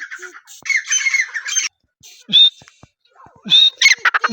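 Francolin (teetar) calling: loud, harsh squawking calls in short bursts, with a chattering run about a second in and a quick series of calls near the end.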